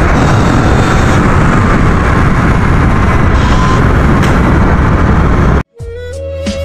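Loud rumble and wind buffeting on the microphone while riding an electric dirt bike over a rough trail, with no engine note. It cuts off suddenly near the end, and background music starts.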